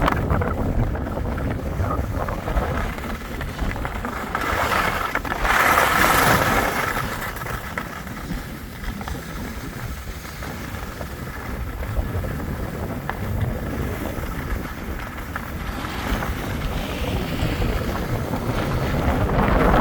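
Wind buffeting the microphone: a steady low rumbling noise that swells briefly about five seconds in.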